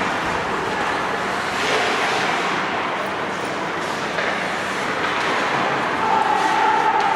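Ice hockey rink ambience during play: a steady wash of noise from skating and the arena, with a few faint clicks, and a steady humming tone that comes in near the end.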